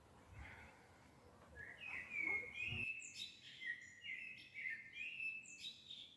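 A songbird singing a run of short, repeated, high phrases, starting about two seconds in, over faint outdoor background noise that drops away abruptly about a second later.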